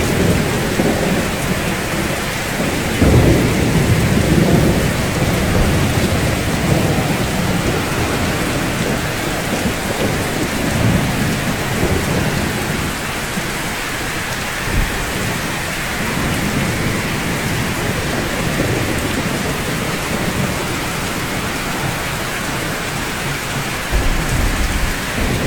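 Steady rainfall, a dense even hiss, with low rolling thunder rumbles swelling a few seconds in, briefly in the middle, and again near the end.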